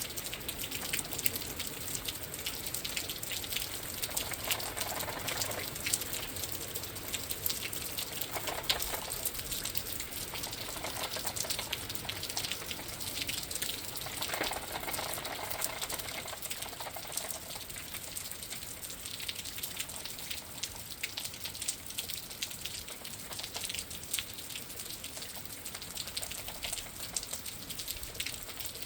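Steady rain pattering, with many close drop hits, heard through a window, and a few brief swells of gusting wind about 5, 9 and 15 seconds in.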